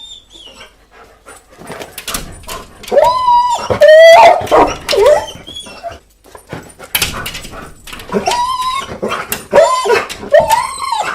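A dog whining and whimpering in high, pitch-bending cries, in two bouts with a short lull between them; the loudest cries come around four seconds in.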